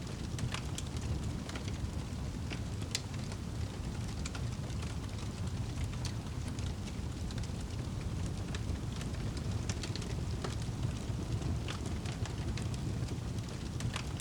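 Wood fire burning in a fireplace, with a steady low rumble and scattered sharp crackles and pops.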